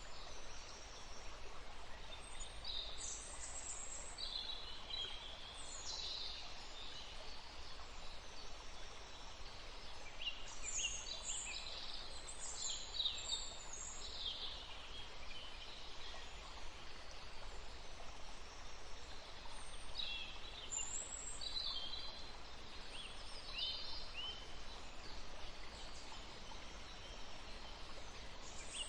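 Small songbirds chirping and twittering in short, high calls, several overlapping, busiest in the middle of the stretch and again later, over a steady low background hiss.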